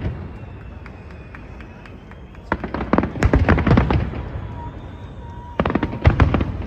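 Fireworks going off in two volleys of rapid bangs and crackles, one starting about two and a half seconds in and another near the end.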